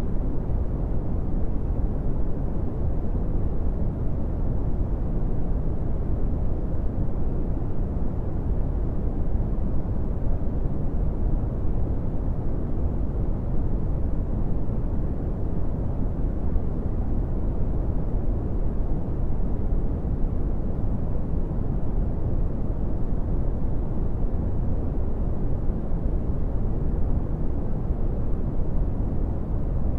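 Brown noise: a steady, deep rumbling hiss with most of its weight in the lows, fading above about 1 kHz, unchanging throughout.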